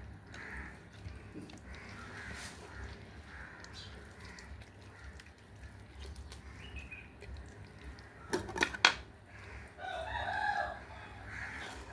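A rooster crows once, about ten seconds in, over faint clucking from fowl. A couple of sharp knocks come just before the crow.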